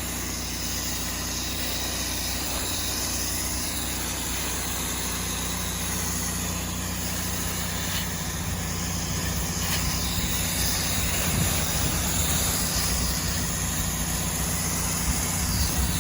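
Truck-mounted pressure washer's engine running steadily, with the hiss of water spray over it.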